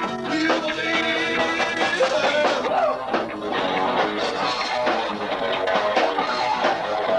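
Live rock trio playing: guitar, bass guitar and drums, with pitched guitar lines over a steady drum beat.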